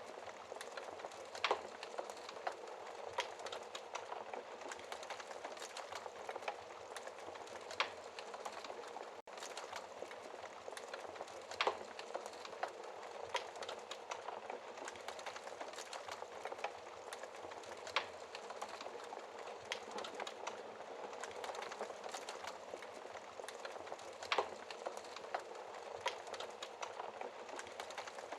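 Wood fire crackling in a fireplace: a steady hiss with irregular sharp pops every few seconds, and a momentary break in the sound about nine seconds in.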